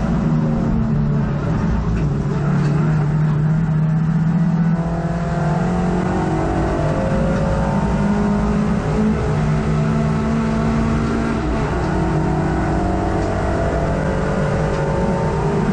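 Hot hatch race car's engine heard from inside the cabin at racing speed, its pitch climbing and dropping several times as it revs through gear changes and lifts for corners.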